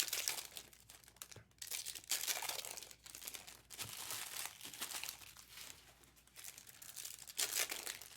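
Trading-card pack wrappers crinkling and tearing in irregular bursts as packs are handled and opened.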